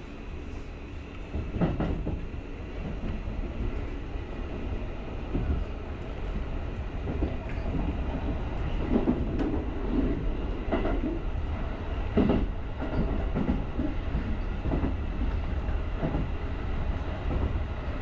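Electric commuter train running along the line, heard from the driver's cab: a steady low rumble with irregular knocks as the wheels pass over rail joints.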